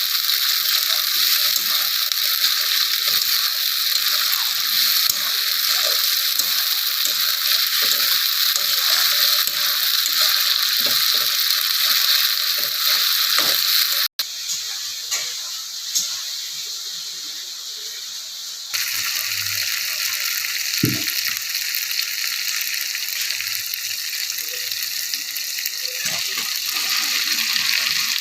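Chicken curry frying in hot oil in a pan, a steady sizzling hiss with small crackles. It breaks off about halfway through and comes back quieter.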